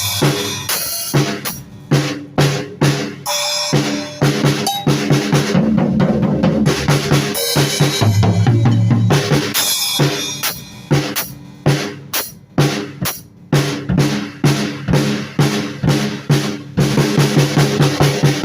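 Drum kit played freely with no steady groove: dense, irregular hits on bass drum, snare and what sound like rimshots and cowbell, with a few fills.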